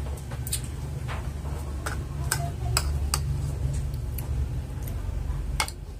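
Crisp, unripe green mango being chewed close to the microphone: a string of sharp crunching clicks at uneven spacing, over a steady low rumble.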